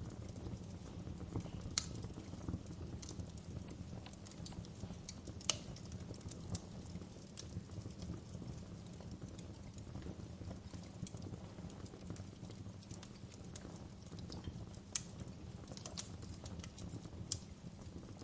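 Fire crackling: a steady low rumble with irregular sharp pops and snaps scattered throughout, the sharpest about five and a half seconds in.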